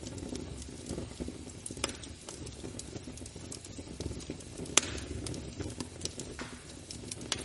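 Fireplace fire crackling: a steady low rush of flames with irregular sharp pops, the loudest a little under five seconds in.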